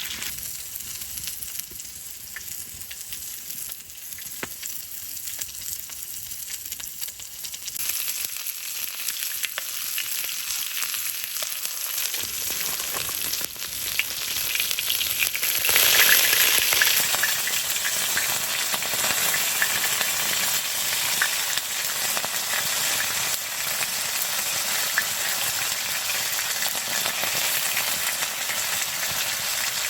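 Food sizzling and spitting in a hot pan, a dense steady crackle that grows clearly louder about halfway through.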